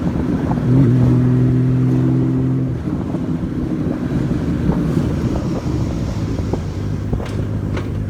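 Honda Valkyrie's flat-six motorcycle engine running steadily under way, with road and wind noise; its note swells louder for about two seconds near the start, then settles back.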